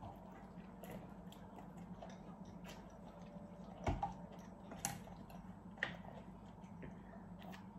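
Quiet chewing of dumplings with the mouth, with a few soft clicks, the loudest about four seconds in and smaller ones about a second and two seconds later.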